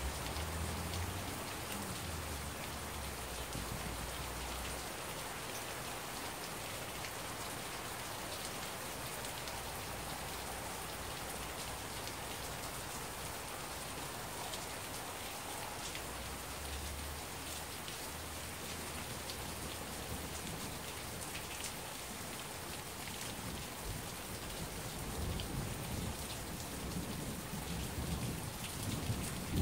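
Heavy rain falling steadily, with individual drops ticking close by. Low thunder rumbles faintly near the start and again about midway, and another rumble builds near the end.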